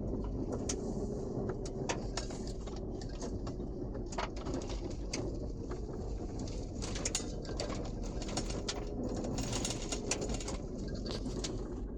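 2006 Toyota Highlander 4WD driven hard on a rough surface: a steady low engine and road rumble, with many short clicks and knocks throughout.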